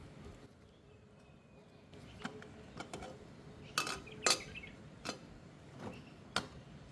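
Cooking utensils clinking and knocking against cookware: about eight separate short strikes, the two loudest close together near the middle.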